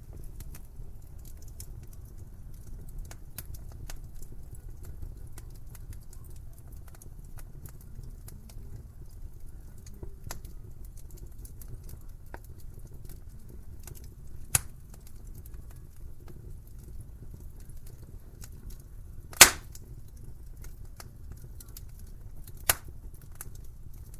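Wood fire crackling in a fireplace: a steady low rumble of burning with many small snaps, and three louder pops in the second half, the middle one the loudest.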